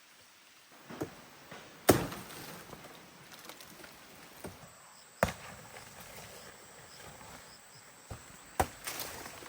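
Wood being chopped or struck with a blade: four strong, irregularly spaced chops with a few lighter knocks between them, the loudest about two seconds in.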